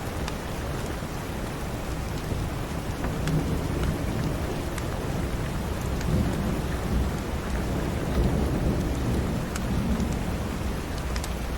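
Steady rain hissing, with a low rolling rumble of thunder that builds about three seconds in and fades near the end. Scattered sharp clicks sound through it.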